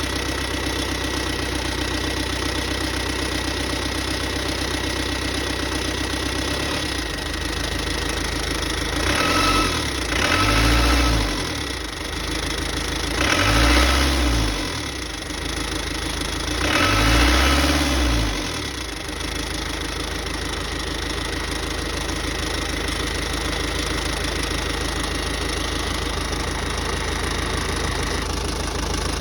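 Freshly rebuilt Iveco Daily Mk2 van engine idling steadily, revved up briefly three times in the middle before settling back to idle.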